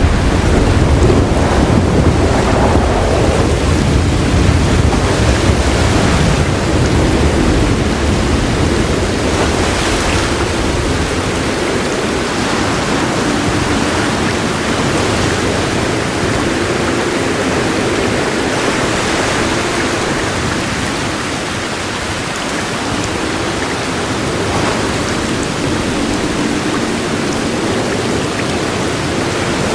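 Heavy rain falling steadily, with a low roll of thunder through the first several seconds that dies away, leaving the rain alone.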